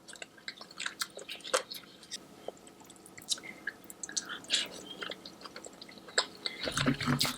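Close-miked wet chewing and lip-smacking of saucy seafood boil, with many short, irregular clicks and smacks. A short low murmur of voice comes near the end.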